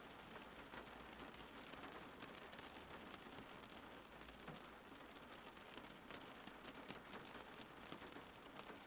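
Steady, faint rain falling, with many small drops pattering on surfaces.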